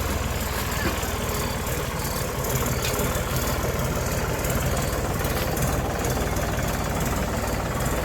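Tractor engine running steadily at a low idle-like pace, a constant low rumble.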